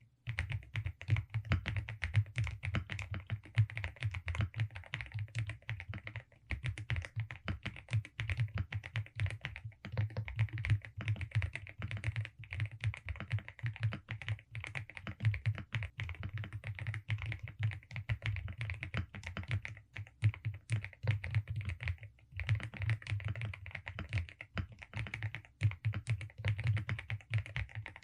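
Continuous fast typing on a Velocifire RX870 mechanical keyboard with DSA keycaps: a dense, unbroken patter of key presses with only a few brief pauses.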